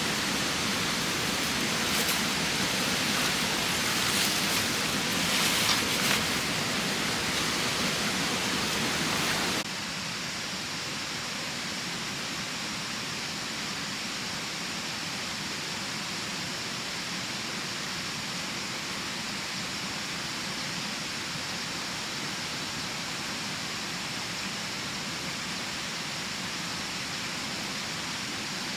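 Steady rush of water with close taps and crackles over it; about ten seconds in it cuts abruptly to a quieter, even rush.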